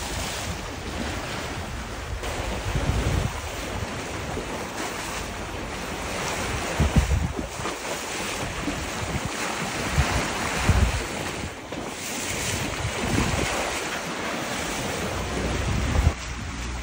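Sea water rushing and splashing past a moving boat, with wind buffeting the microphone in low gusts several times.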